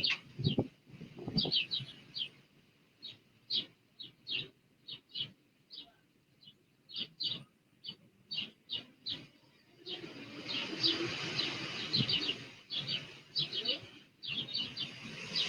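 Small birds chirping in short, high, repeated notes, a few each second. About ten seconds in, a steady rushing noise comes up beneath them.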